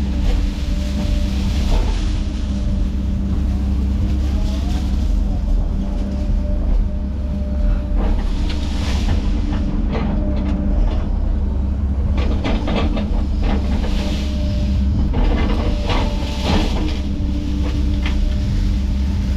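Heavy diesel machinery running steadily under load, with scattered cracks and knocks from wood and metal.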